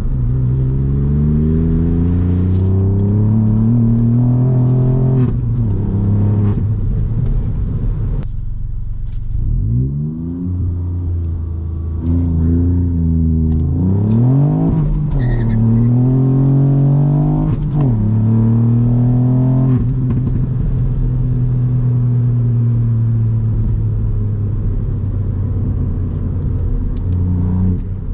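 Ford Fiesta ST Mk8's turbocharged 1.5-litre three-cylinder engine through a Milltek exhaust while driving. The engine note climbs and dips through several gearchanges, falls away about eight seconds in with a sharp crack, and rises and falls quickly a few times before settling into a steady cruise.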